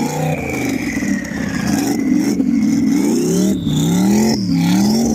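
Twin-turbo LS V8 of a BMW E36 drag car revving up and down repeatedly, with a high whine climbing in pitch alongside it.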